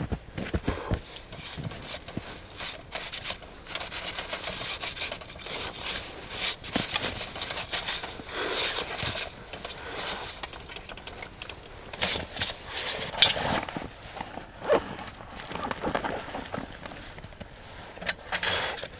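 Irregular scraping, rustling and light knocks, as of gear being handled, with no steady source running.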